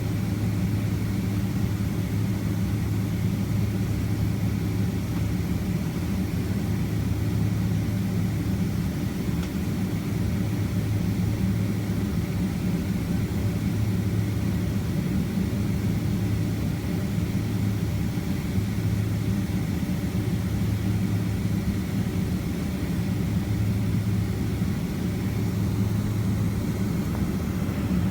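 Steady cabin hum of a Boeing 767-300ER with its engines running at a constant low power, an even low drone with no change in pitch.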